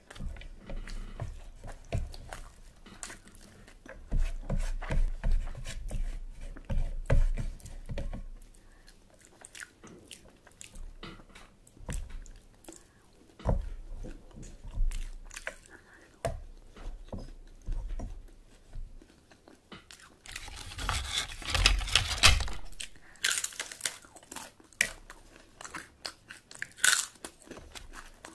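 Close-miked chewing and mouth sounds of someone eating mutton curry with rice, with wet smacks and soft thumps. About twenty seconds in comes a loud, dense run of crunching from biting into something crisp.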